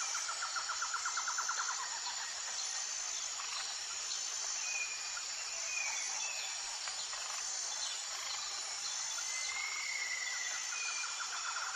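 Tropical forest ambience: a steady high insect chorus that pulses at an even beat, with a rapid trill in the first two seconds. A few short bird whistles come in the middle and near the end.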